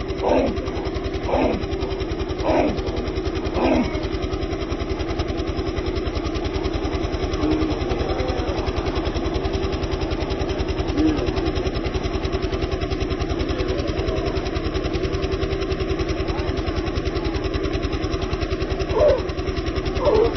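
A dog barking about once a second for the first few seconds, then twice more near the end, over a steady engine-like drone.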